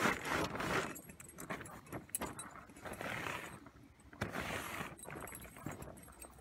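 Light metallic clinking and rattling in irregular bursts, as of small metal objects being handled, with rustling between.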